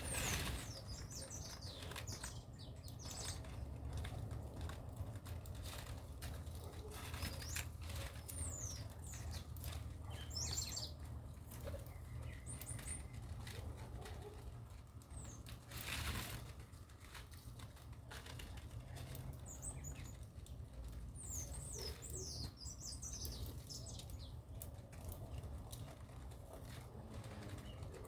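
Small birds chirping in scattered short, high, falling chirps, with a couple of louder rustling bursts, one at the start and one about halfway, over a steady low rumble.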